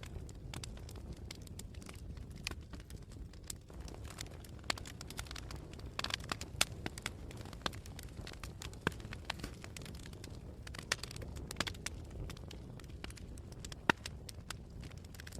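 Campfire crackling with scattered sharp pops over a steady low rumble. The pops come in a thicker cluster about six seconds in, and there is a single loud pop near the end.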